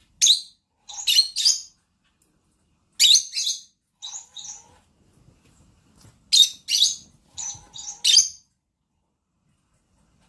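Lovebird giving short, sharp, high-pitched chirps in quick clusters of two or three, with pauses between the clusters.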